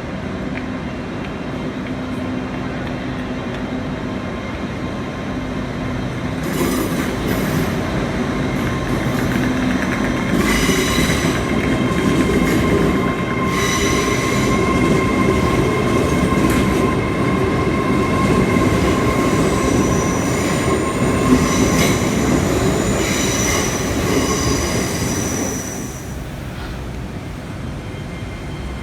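DCC sound decoder in a Hornby OO-gauge model of a Hitachi Class 800 bi-mode train, playing its train running sounds. A steady hum grows louder about six seconds in, and high whining and squealing tones are held through the middle. The sound drops back near the end.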